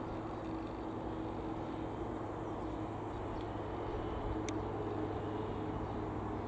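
Light aircraft piston engine droning steadily, with a brief click about four and a half seconds in.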